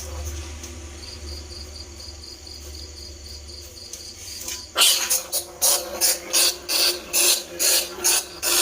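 Bandicoot rat lure call: faint hiss and a quiet rapid high chirping, then about halfway through loud, rhythmic squeaking sets in, about two to three squeaks a second.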